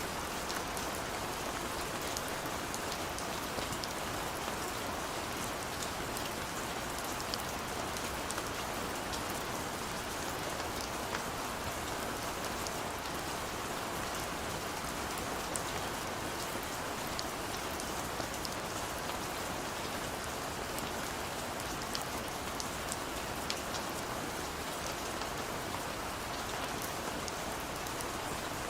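Steady, gentle rain falling on hard surfaces, an even hiss with many small drop ticks scattered through it.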